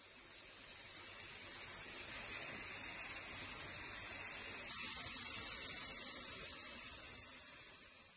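A steady hiss, strongest in the high range, that swells over the first couple of seconds, holds, and tapers near the end.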